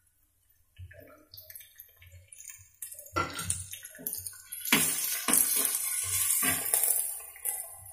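Diced potato, onion and tomato sizzling in hot oil in a frying pan, stirred and scraped with a spatula, with a few knocks of the spatula against the pan. The sizzling and stirring start faint about a second in and grow louder about three seconds in.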